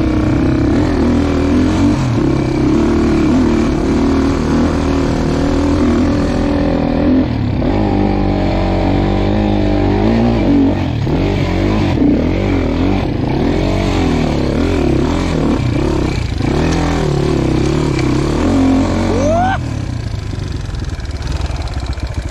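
Dirt bike engine running under load on a rough trail, its revs rising and falling again and again with the throttle. Near the end it revs up sharply, then drops to a lower, quieter run.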